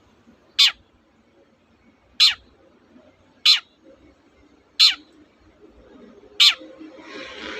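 Long-tailed shrike giving five short, harsh calls, each sliding down steeply in pitch, about one every one and a half seconds. A steady hiss of noise comes up near the end.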